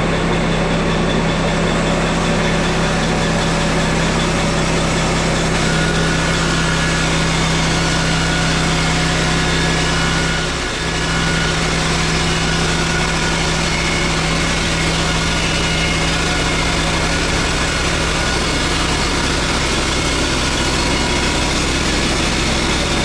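Woodland Mills HM122 portable bandsaw mill's small gas engine running steadily, with a brief dip about eleven seconds in.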